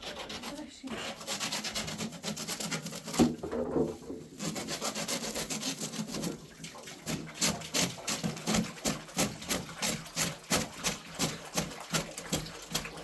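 Repeated hand scraping or rubbing strokes, dense at first, then settling into an even rhythm of about three strokes a second for the last several seconds.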